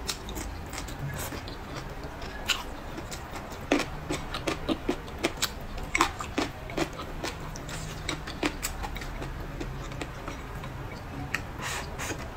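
Close-miked eating: a person chewing leafy green vegetables, with a run of irregular wet mouth clicks and smacks, busiest in the middle.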